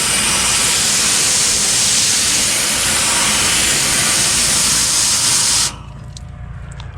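Garden hose spray nozzle on its flat setting spraying water onto an air conditioner condenser's coil, a loud steady hiss that cuts off suddenly near the end.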